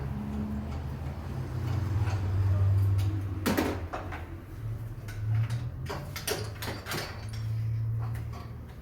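Hand tools and metal engine parts clinking and knocking, a few sharp strikes bunched near the middle, over a low steady hum.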